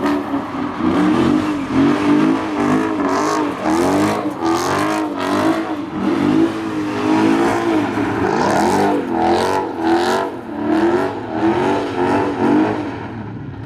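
A car engine revving hard through a burnout. Its pitch swings up and down about twice a second as the throttle is worked, and it fades near the end.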